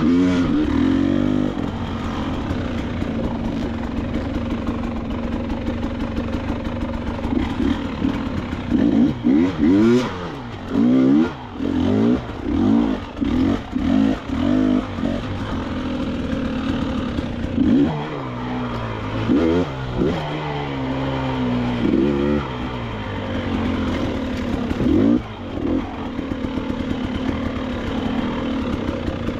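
KTM 300 XCW two-stroke enduro motorcycle engine running at low revs with many short throttle blips, each rising and falling in pitch, most frequent in the middle part and again later on.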